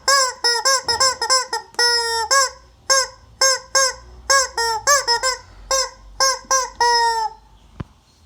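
Rubber chicken squeaky toy squeezed over and over, giving a quick run of short squawks mixed with a few longer, honking squeals that bend in pitch. A single sharp click comes near the end.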